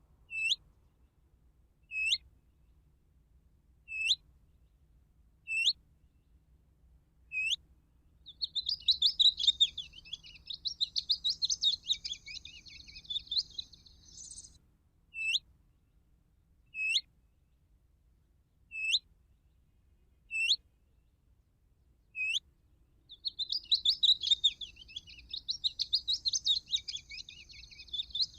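A looped recording of a small bird's calls played from a bird-caller device as a hunting lure. A sharp, short whistled note that falls and then turns up sounds about every two seconds. A longer burst of rapid chattering song comes about eight seconds in and again near the end.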